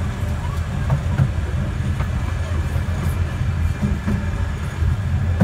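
A 12-inch gauge miniature railway carriage rolling along the track: a steady low rumble with a few light clicks of the wheels over the rails.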